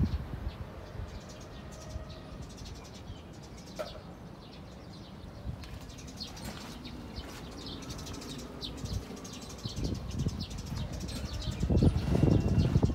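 Scattered bird chirps over a low, uneven rumble that swells near the end; no engine is heard running.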